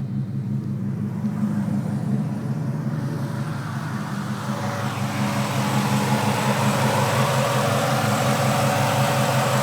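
Swapped-in 4.8-litre V8 engine idling steadily with the air-conditioning compressor engaged. About halfway through, a louder rushing noise rises over the idle.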